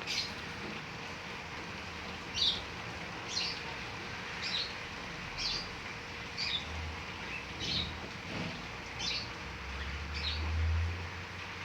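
A bird repeating one short, high chirp about once a second over the steady hiss of heavy rain falling. A low rumble rises in the second half and fades near the end.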